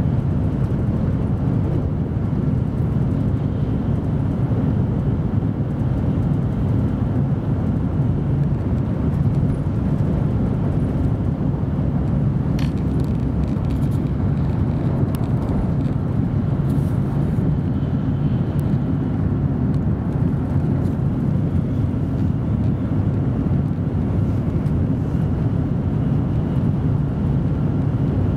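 Steady low rumble of an N700 series 7000 Shinkansen heard from inside the passenger cabin while running at high speed.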